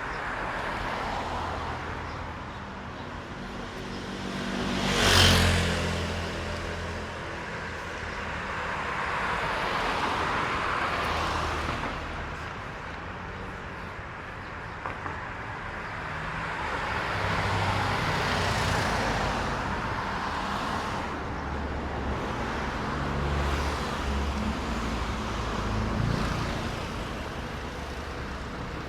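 Road traffic on wet streets: several cars pass one after another, the tyres hissing on the wet road. The closest and loudest passes about five seconds in.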